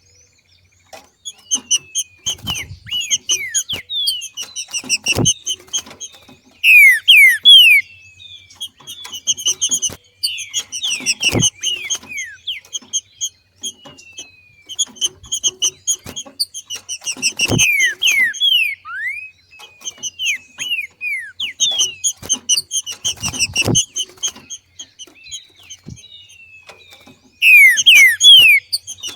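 Green-winged saltator (trinca-ferro) giving its rapid chattering 'macheado' call, the call of a female coming into breeding condition: bursts of quick chirps with downward-sweeping notes, loudest about seven seconds in and again near the end. Sharp clicks come about every six seconds.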